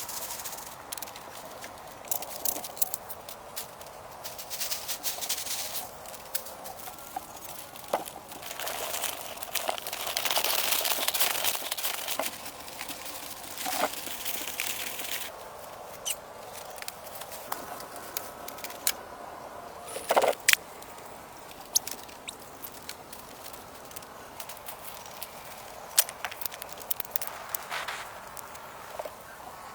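Hand building work: scattered taps, knocks and clicks with rustling and crackling, denser for a few seconds a third of the way in, and a sharper double knock about two-thirds through.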